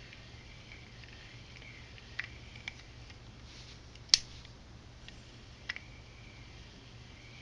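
A few sharp clicks of small reel parts and tools being handled while working on a Shimano Twinpower C2000S spinning reel; four clicks, the one about four seconds in the loudest, over a steady low hum.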